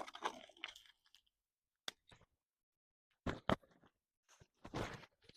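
A handful of short crunching and clicking sounds spread over a few seconds, with silence between them; the loudest come in a small cluster about three seconds in and near the end.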